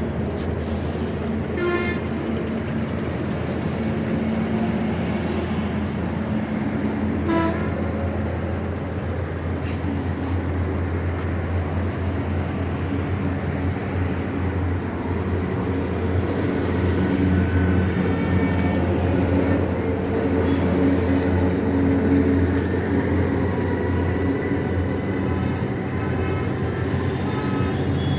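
Tow truck's engine running steadily, with two short horn-like toots about two and seven seconds in.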